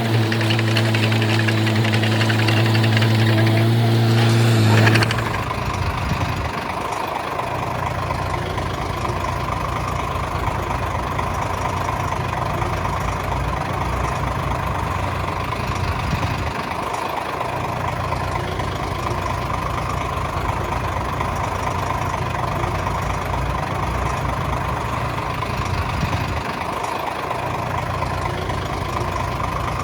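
Heavy machinery diesel engine running steadily. About five seconds in, the sound switches abruptly to a different, lower engine drone that holds steady.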